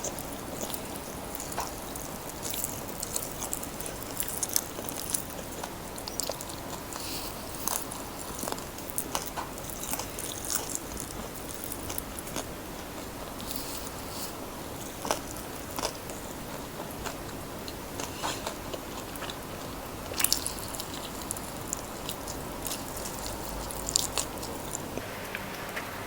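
Close-miked eating sounds of crispy fried chicken: crunching bites into the fried skin and chewing, with irregular sharp crackles and a few louder snaps.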